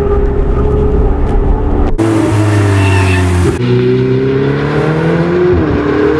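Ferrari 488's twin-turbo V8 running under steady load, heard from inside the cabin. About two seconds in the sound cuts to a car engine with a rush of hiss, then the engine revs up, rising in pitch, drops sharply at a gear change near the end and climbs again.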